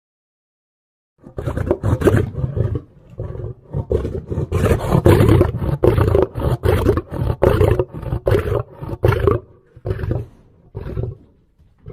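A lion roaring: after a second of silence, a bout of deep, rapid roars builds to its loudest midway, then trails off into a few shorter grunts near the end.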